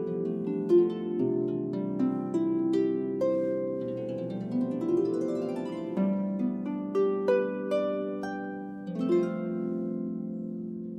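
Harp playing plucked notes that ring on over one another, with a quick rising run of notes about four to five seconds in.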